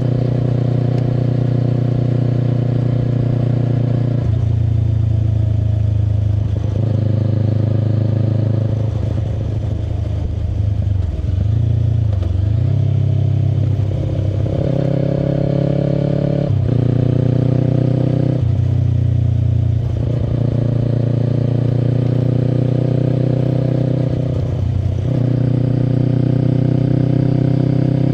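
Kawasaki Eliminator SE's 400cc parallel-twin engine running through a BEAMS Power Header full aftermarket exhaust at road speed. The engine pitch steps up and down several times, as with gear changes, and about a third of the way in it drops away, then climbs again as the bike slows and picks up speed.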